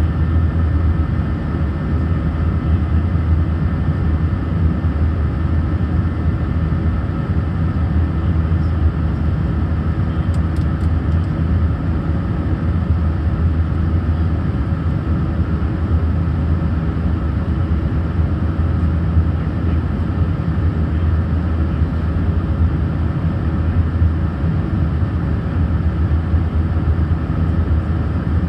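Steady cabin noise inside an Airbus A319 in flight: a low engine drone with airflow roar and a few faint steady whining tones, unchanging throughout.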